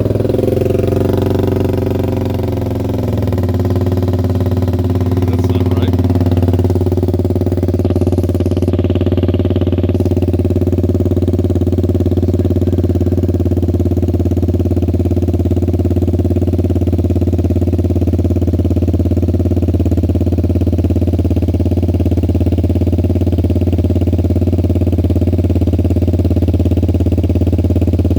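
2014 Suzuki Burgman 200 scooter's single-cylinder engine idling after a start, dropping to a steady idle within the first few seconds. The engine has an exhaust leak.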